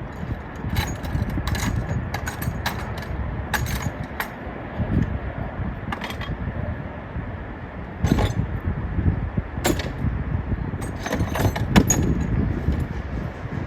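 Metal hand tools clinking and rattling as they are picked up and handled: a scattered series of sharp clinks, the loudest about eight, ten and twelve seconds in, over a steady low rumble.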